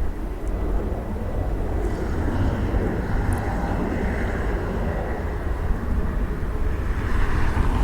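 Jet airliner engine noise: a steady low rumble, swelling slightly near the end.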